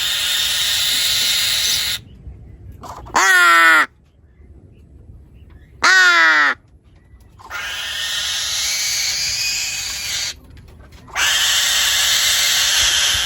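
Farm animal calls: three long harsh calls of two to three seconds each, and between them two short calls that drop in pitch.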